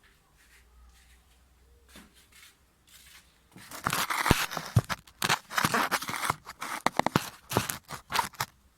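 Close handling noise: dense rustling, scraping and sharp clicks right at the microphone, starting about three and a half seconds in after a few faint taps.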